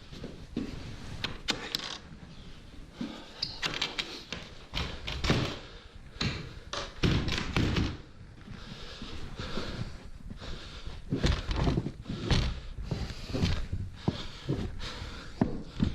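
Irregular thumps, knocks and scraping noises, with no steady engine running.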